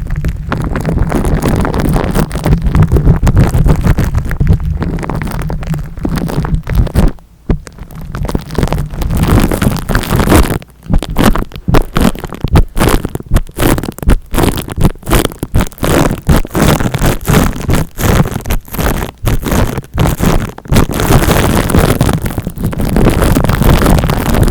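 Close-up rubbing and scratching directly on the microphone, scalp-massage style ASMR, with heavy low rumble. It starts as a continuous rub, then from about a third of the way in breaks into quick repeated strokes with brief pauses between them.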